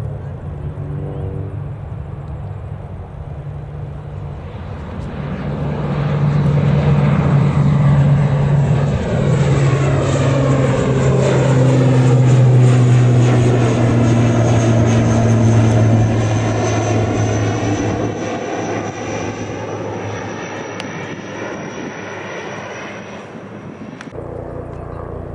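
An aircraft flying low past, growing louder from about four seconds in and fading again in the second half, its engine tones dropping in pitch as it goes by. A high whine above it stops suddenly near the end.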